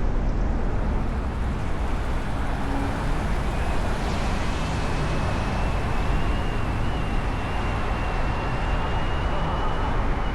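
Steady road traffic noise, a dense rumble of cars moving. A thin high whine comes in about three and a half seconds in and stops near the end.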